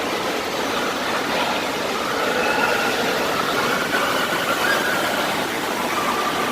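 Steady loud rush of water, with faint distant voices through it.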